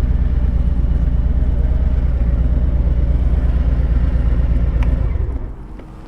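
Harley-Davidson Road Glide Limited's Milwaukee-Eight 114 V-twin idling with a deep, uneven rumble, then switched off a little over five seconds in as the bike stops to refuel.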